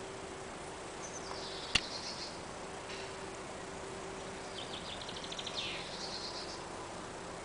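Small songbirds singing: a short chirping phrase about a second in and a longer rapid trill from about four and a half to six seconds in, over a faint steady hum. A single sharp click near two seconds in is the loudest sound.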